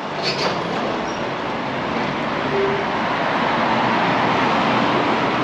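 Road vehicle going by on a town street, an even noise that slowly grows louder.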